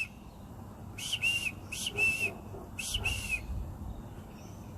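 Short whistled calls in pairs: three double whistles, each note a brief, slightly arched tone, given about every second.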